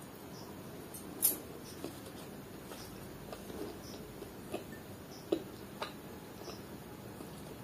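Close-up eating sounds of a person chewing soft chicken liver curry and roti: wet mouth clicks and squelches, with a sharper click about a second in and a few more between about four and six seconds.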